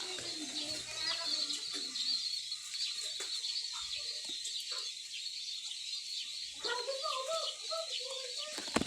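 Chickens clucking over a steady chorus of high, thin chirping. The clucks come at the start and again in a cluster near the end.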